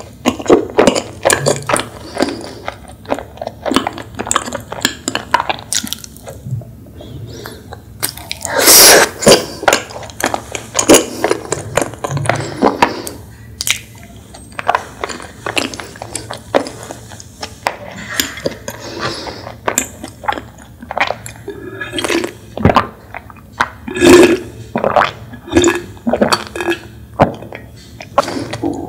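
Close-miked chewing of a chocolate-coated chewy rice cake (chocolate chaltteok), many irregular sticky mouth clicks and smacks with a few louder bursts. Near the end comes a drink from a glass bottle.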